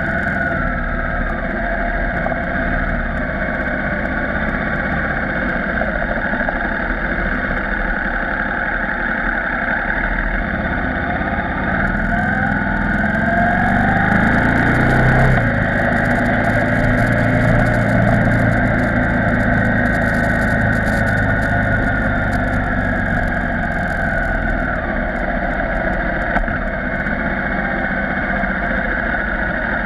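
KTM 990 Supermoto R's 999 cc V-twin engine running at low road speed. Its pitch climbs from about twelve seconds in, then drops sharply near fifteen seconds, and falls away again near the end as the throttle is eased.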